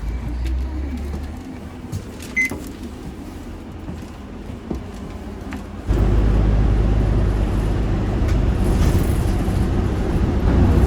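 Steady low rumble of a vehicle running, which jumps sharply louder about six seconds in, with a few faint clicks and a short high beep in the first half.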